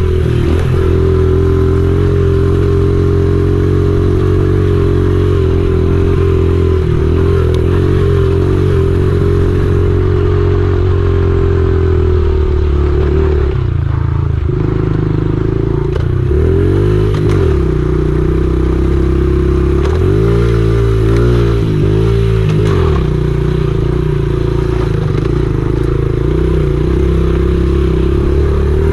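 Honda XR70R pit bike's small four-stroke single-cylinder engine running steadily under way, with the revs rising and falling a few times in the second half.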